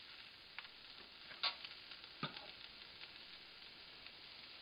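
Frozen mixed vegetables and diced onion sizzling steadily in hot oil in a steel wok, with a metal slotted spatula scraping and tapping against the wok about three times in the first couple of seconds.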